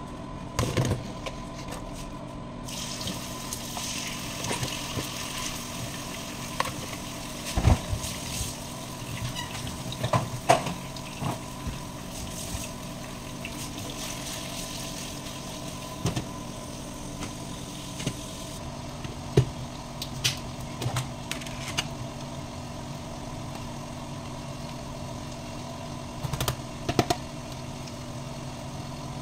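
Raw chicken pieces sizzling in hot oil in a non-stick wok, with spatula knocks and scrapes against the pan, over the steady hum of a kitchen range-hood fan. The sizzle starts about three seconds in and dies away after about eighteen seconds. A few knocks come near the end.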